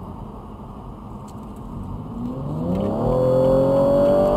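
BMW M3 E46 CSL's S54 straight-six accelerating hard. After about two seconds of low, steady running, the engine note climbs quickly in pitch and gets louder, then keeps rising slowly at high revs.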